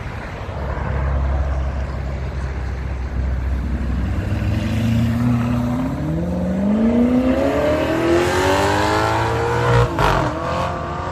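A car's engine accelerating hard on a fast take-off, its note rising steadily over several seconds over a low rumble. The rise breaks off suddenly near the end.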